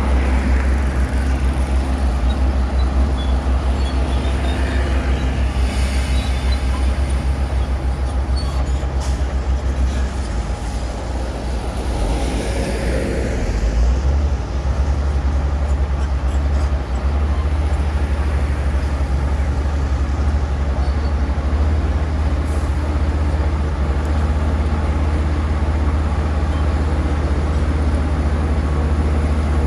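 Bulldozer's diesel engine running with a steady, deep drone. The loudness sags briefly about ten seconds in and picks up again a few seconds later.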